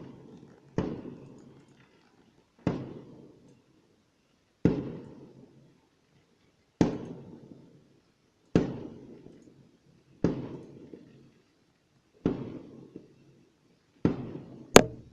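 Fireworks going off: a string of bangs about two seconds apart, each trailing off in echo, with a sharper crack near the end.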